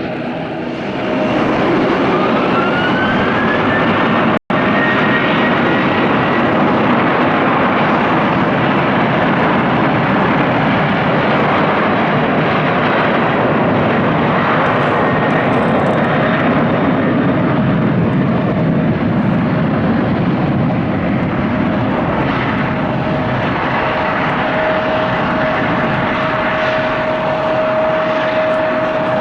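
Skymark Airlines Boeing 737 jet airliner taking off. The engines spool up with a rising whine over the first few seconds, then give a loud, steady jet engine noise through the takeoff run and climb-out.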